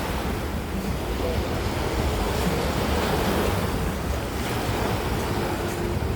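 Sea waves washing onto the beach, a steady surf noise, with wind buffeting the microphone.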